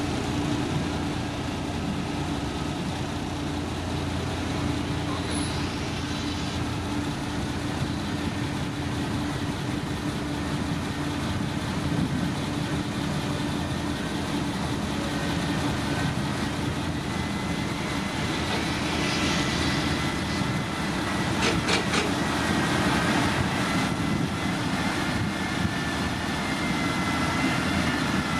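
Diesel engine of heavy earthmoving machinery running steadily, with a faint high whine in the second half and a few sharp clicks about three-quarters of the way through.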